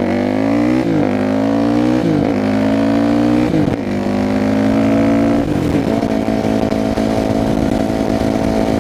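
Yamaha WR450F supermoto's single-cylinder four-stroke engine, loud through a blown-out FMF slip-on exhaust that the rider believes needs repacking. It accelerates through several upshifts, the pitch climbing and dropping at each shift about four times in the first five seconds, then settles into a steady cruise.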